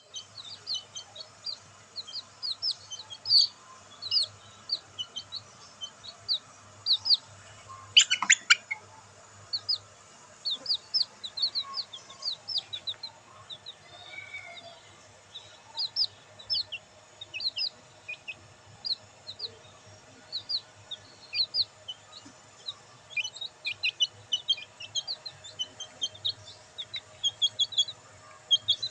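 Black bantam chicks peeping: many short, high-pitched chirps in quick succession, with a brief louder burst about eight seconds in.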